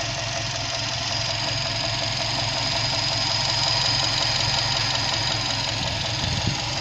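Subaru WRX STI's 2.5-litre turbocharged flat-four boxer engine idling steadily, with a steady high-pitched whine over the engine note.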